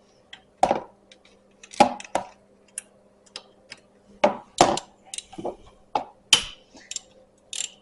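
Irregular metallic clicks, clinks and short scrapes of an Allen key working a screw out of an ATV's recoil starter cover, under a faint steady hum.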